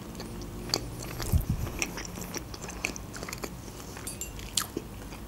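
Close-miked mouth sounds of a person chewing food: scattered soft wet clicks and smacks.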